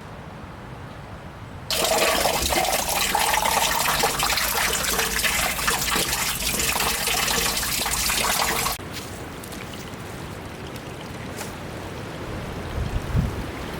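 Spring water running hard into a container, with a faint tone that climbs a little as it fills. The water starts suddenly and cuts off suddenly, then a quieter steady trickle with a few drips follows.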